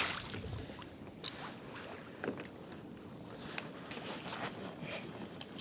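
Faint water and wind noise around a fishing kayak at sea, with a few light knocks.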